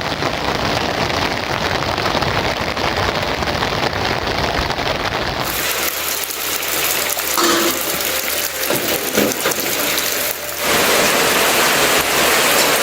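Heavy rain falling, a dense steady hiss; its tone changes abruptly about five seconds in and again about ten seconds in.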